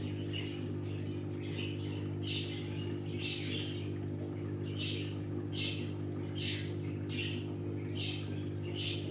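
A parrot giving short chirps over and over, roughly one every 0.7 seconds, over a steady low hum.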